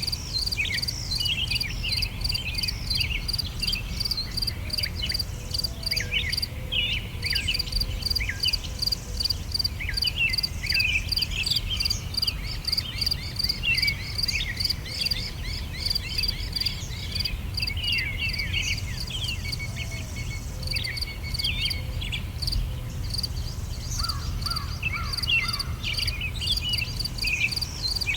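Several songbirds singing with many short chirps and trills, over a steady, rapid, high-pitched chirping of insects and a low steady rumble underneath.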